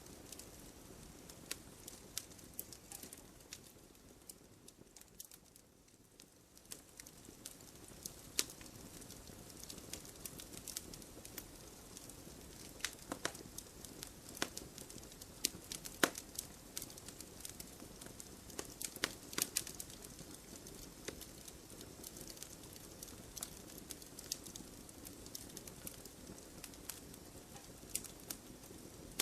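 Wood fire burning in a fireplace, with irregular sharp crackles and pops from the burning logs over a low steady hiss; the crackling thins and quietens for a few seconds about five seconds in.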